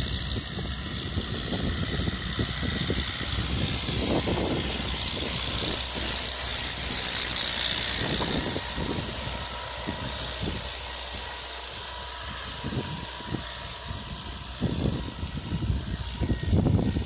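Mahindra 575 tractor's diesel engine running steadily, with a hiss that swells around the middle and fades away.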